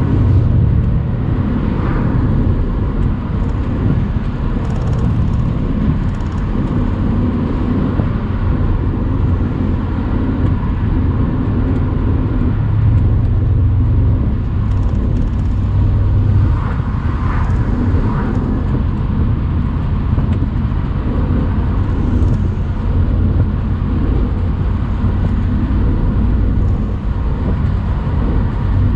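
Mercedes-AMG C63's twin-turbo 4.0-litre V8 running at a steady pace on the road, a deep rumble under tyre and wind noise.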